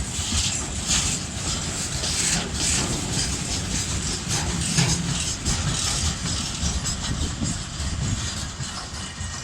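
Tank cars of a long freight train rolling past, wheels clicking over the rail joints in an uneven run of knocks over steady rumbling. It gradually gets quieter near the end as the train moves away.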